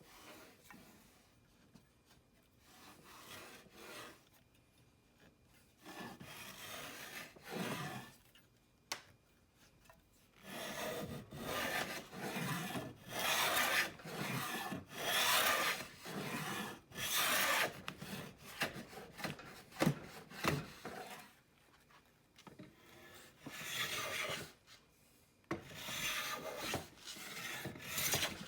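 Restored Stanley Bailey No. 5 Type 20 jack plane taking shavings off a board in a series of strokes, each about a second long with short pauses between. The strokes are light at first and fuller from about ten seconds in.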